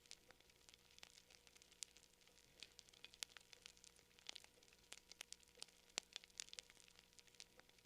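Campfire crackling quietly: irregular sharp pops and snaps of burning wood, several a second, over a faint hiss.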